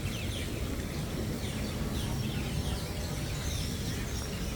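Birds chirping: many short, falling chirps, one after another, over a steady low background rumble.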